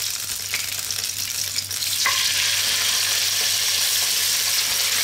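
Hot cooking oil sizzling in a nonstick frying pan. About two seconds in, the sizzle grows louder and fuller as thin slices of raw pork liver are laid into the oil.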